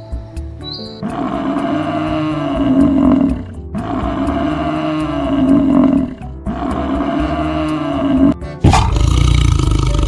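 A large animal gives three long calls in a row, each about two seconds, the pitch rising then falling. Background music runs under the calls, and near the end a louder sound starts suddenly.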